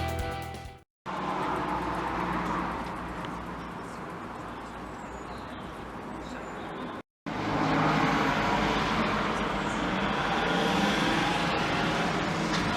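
Background music fading out, then steady road-traffic noise in two stretches, each starting after a brief drop to silence, about a second in and again about seven seconds in.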